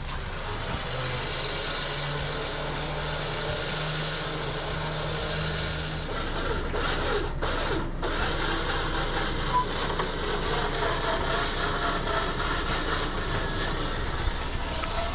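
An engine running steadily with a low hum that drops away about six seconds in, followed by rougher, noisier mechanical sound.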